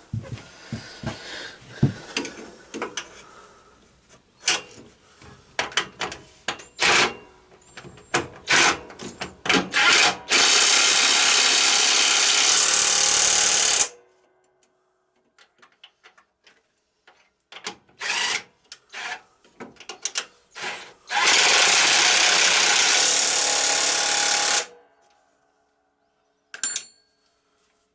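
Handheld power tool driving fasteners: a series of short trigger blips, then two steady runs of about three and a half seconds each.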